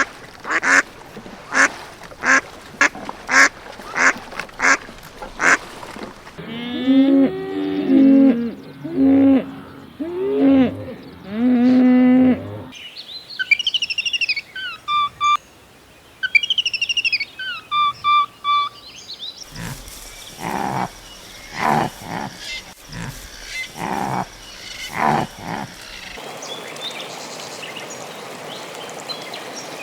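A run of different animal calls, one clip after another: about a dozen short repeated calls, then honking calls, then high chirping bird calls, then more short calls.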